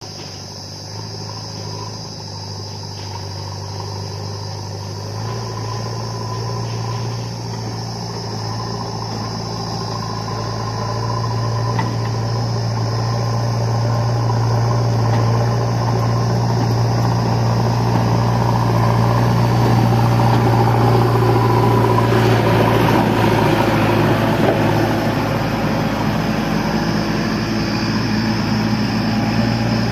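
Diesel engine of a backhoe loader or tractor running steadily at one pitch, getting gradually louder over the first twenty seconds or so, with a rougher, noisier stretch a little after twenty seconds in.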